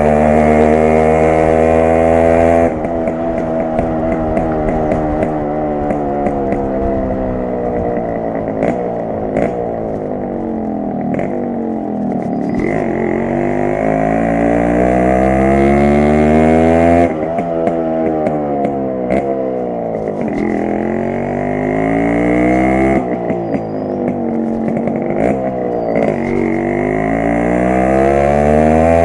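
Yamaha RX 100's single-cylinder two-stroke engine and exhaust under way, its pitch climbing as it accelerates and sinking as it slows, several times over. The note drops abruptly about 3, 17 and 23 seconds in, as with a gear change or the throttle shut.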